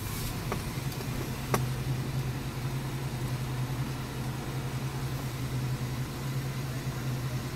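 Nissan car engine idling, heard from inside the cabin as a steady low hum, with a sharp click about a second and a half in.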